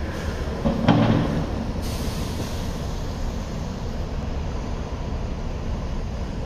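Low, steady rumble of a passenger train at the station, with a brief, louder pitched sound about a second in.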